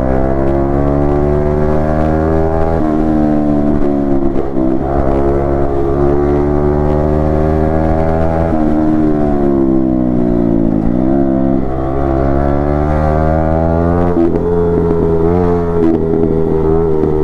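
Yamaha MT-15 V2's single-cylinder engine and exhaust under way, the pitch climbing through the gears with brief dips at each shift. It eases off and falls in pitch around the middle, then pulls up again and holds high near the end.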